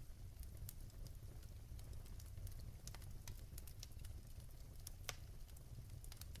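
Wood fire crackling in a fireplace: irregular sharp pops and snaps over a low steady rumble, with one louder snap about five seconds in.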